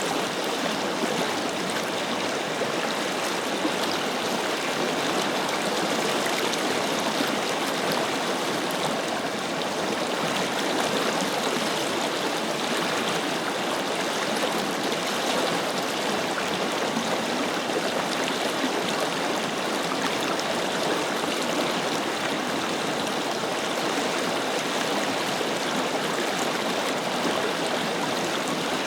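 Forest river flowing, a steady even rush of water over rocks.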